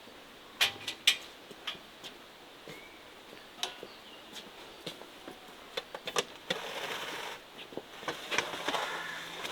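Irregular sharp clicks and knocks, the loudest two about half a second apart under a second in, with a stretch of rustling and scraping in the second half.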